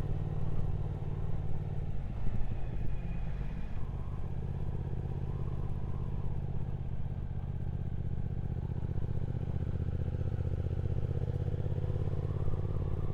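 Triumph Speed Twin 1200's 1200 cc parallel-twin engine running under way, heard from the rider's position. Its note wavers and changes between about two and four seconds in, then holds steady at cruising speed.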